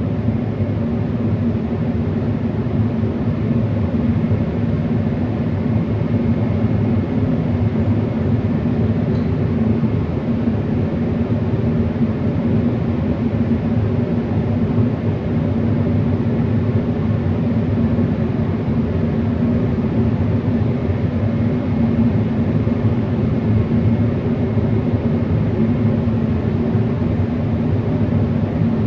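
Steady mechanical drone of running machinery with a low hum, unchanging throughout.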